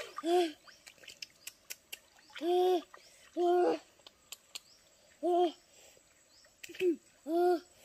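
A bird hooting: about six short, low hoots on one pitch, spaced unevenly, the last two close together.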